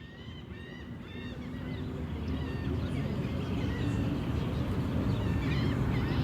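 Outdoor field recording: a bird's repeated call, a few notes a second, fades out in the first second or so. Then a low rumbling ambience with scattered bird chirps grows steadily louder.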